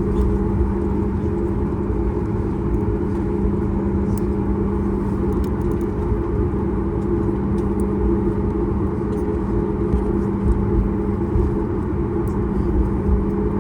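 Steady low cabin drone of a Boeing 737 MAX 8 with its CFM LEAP-1B engines running at low power, a constant hum over a rumble, holding level without spooling up.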